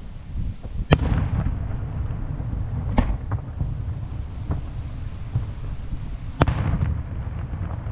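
Fireworks shells bursting in the sky: a loud sharp bang about a second in and another about five seconds later, with fainter booms between, each trailing off in an echo, over a steady low rumble.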